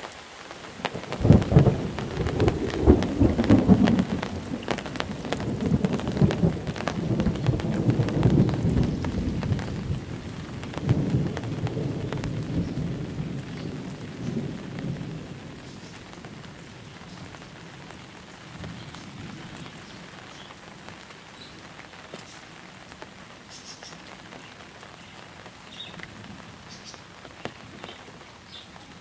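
Heavy monsoon rain falling steadily, with a long roll of thunder that breaks in about a second in, rumbles loudly for several seconds and fades away by about halfway, leaving only the rain.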